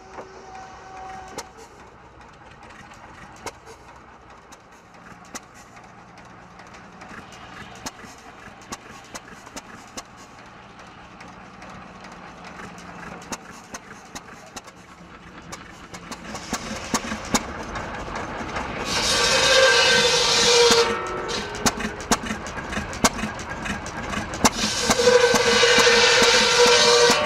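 5 HP Sandwich hit-and-miss gasoline engine running, its firing strokes heard as sharp bangs at uneven spacing. In the second half it works harder and the circular buzzsaw it drives cuts firewood twice, each cut a loud high-pitched ringing of a few seconds, the second longer.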